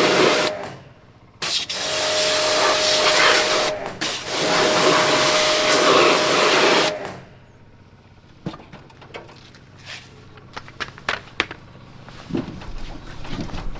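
Air rushing with a steady whine, in three long bursts from an air blower, stopping about seven seconds in; after that only light clicks and knocks.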